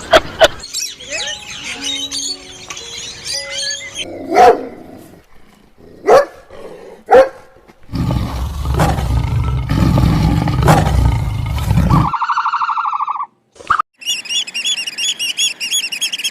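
A series of different animal calls cut one after another. First come short chirps and tones, then a few sharp calls, then a loud low roar-like stretch of about four seconds, and near the end a fast repeating high chirp.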